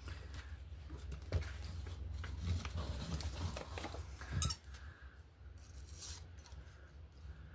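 Paper and small craft tools being handled: rustling and light clicks, with a louder sharp tap or snap about four seconds in, over a steady low hum.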